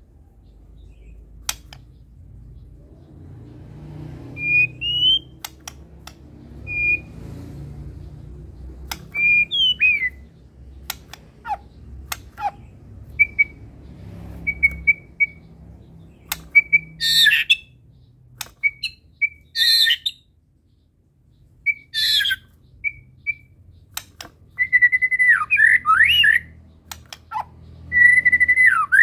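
White-rumped shama (murai batu) singing: short whistled notes and rising whistles mixed with sharp clicks, with harsh rasping calls about three times in the second half and a long run of warbled whistles near the end. A faint low hum runs underneath.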